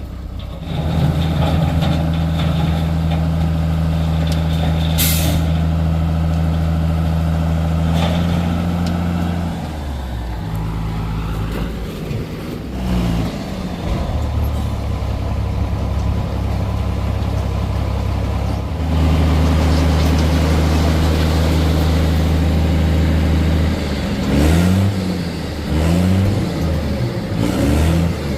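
Heavy diesel engine running steadily at a held speed, then dropping and changing pitch, settling again, and revving up and down several times near the end. A short sharp air hiss about five seconds in.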